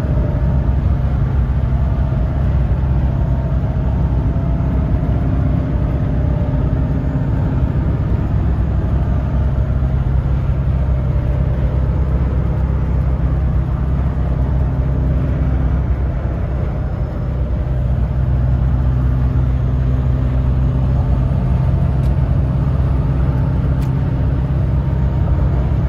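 Duramax V8 turbo-diesel pickup cruising on the road, a loud steady low engine and road drone that eases off briefly about two-thirds of the way through.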